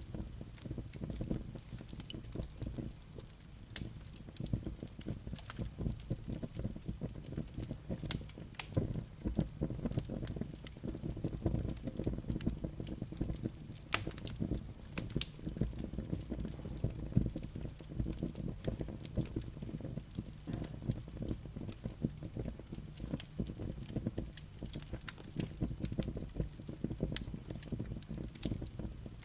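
Firewood burning in a fireplace: constant crackling of the logs and embers over a low, steady rush of the flames, with a few sharper pops, one about halfway through.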